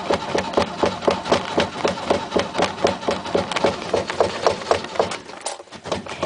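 1967 Mercedes's starter cranking the engine over in a steady rhythm of about five compression beats a second, without it firing: the fuel lines are dry after running out of gas.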